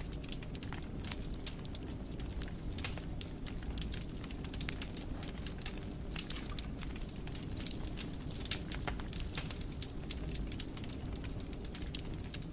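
Wood fire crackling in a fireplace: a steady low rumble of flames with frequent irregular sharp pops and snaps, the loudest about eight and a half seconds in.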